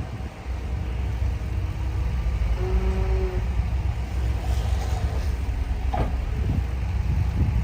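Diesel engine of heavy earthmoving machinery running steadily with a deep rumble. A brief held tone sounds about three seconds in, and a short sharp sound comes near six seconds.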